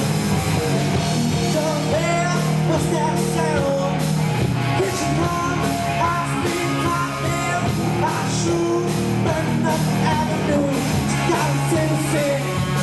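Live rock band playing loudly: drums, bass and a gliding melodic lead line over it, in a rough, poor-quality recording.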